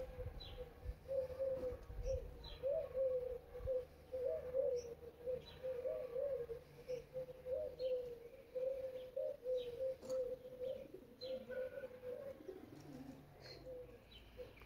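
Birds calling: a low cooing warble goes on almost without a break, and short high chirps come every second or so.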